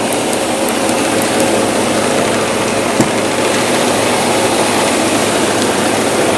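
Semi-truck's diesel engine running steadily, with one sharp click about three seconds in.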